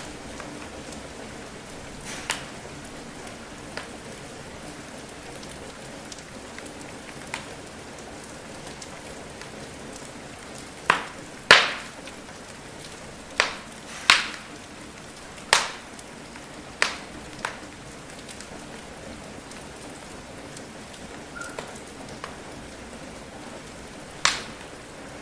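Steady patter of rain, with sharp crackles and pops from a burning wood fire scattered over it, a run of them in the middle and one more near the end.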